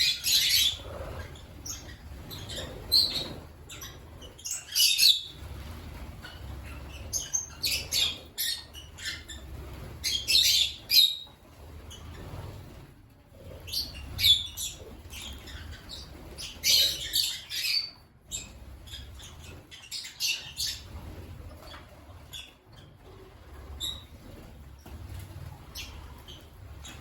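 African lovebirds giving shrill chirps and squawks in short clusters every couple of seconds, over a low steady hum.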